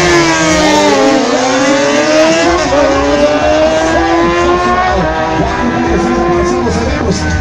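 Drag-racing sport motorcycle engines at full throttle down the strip. The pitch drops over the first second or so, then climbs slowly in one long pull that fades about six and a half seconds in.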